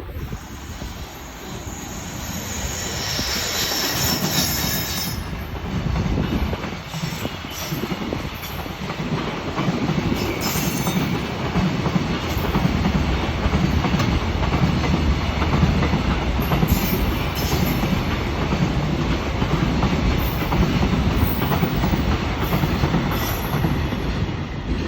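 Freight train of container wagons hauled by an EF210 electric locomotive passing close by, its wheels clattering over the rail joints in a steady repeating rhythm. It grows louder over the first few seconds, with brief high-pitched wheel screeches now and then.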